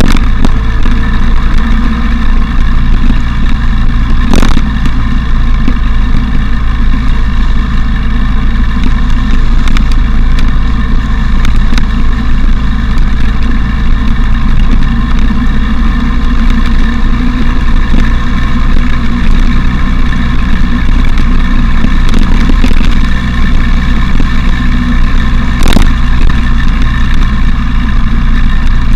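Motorcycle engine running at a steady cruise under a loud, constant low rumble of wind on the action camera's microphone. Two short sharp knocks cut through, one a few seconds in and one near the end.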